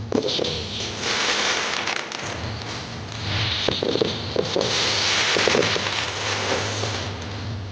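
Aerial fireworks bursting, with a dense crackling hiss from crackle-effect shells that swells about halfway through, punctuated by several sharp bangs.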